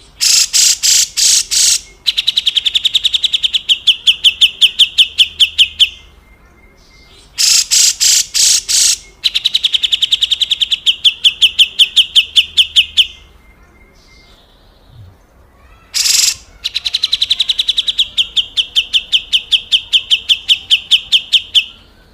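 Cucak jenggot (grey-cheeked bulbul) giving its harsh 'besetan kasar' call, three times. Each bout opens with a few loud, harsh rasping notes and then runs into a fast, buzzy rattling trill lasting about four seconds.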